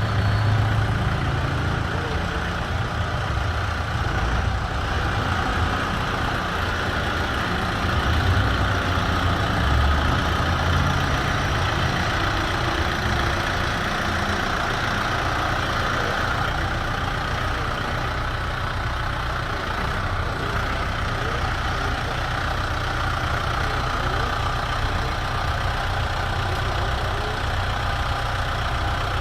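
Kubota M7040 tractor's four-cylinder diesel engine running steadily at a constant speed.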